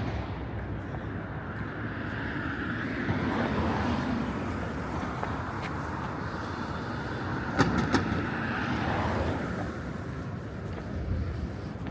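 Outdoor city street ambience with road traffic: a steady hum of vehicles that swells twice as vehicles pass, and two or three sharp knocks about two-thirds of the way in.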